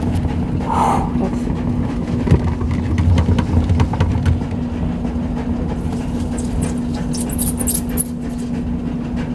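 Laundry machine running with a steady hum and low rumble, with a few clicks and a brief hiss near the end.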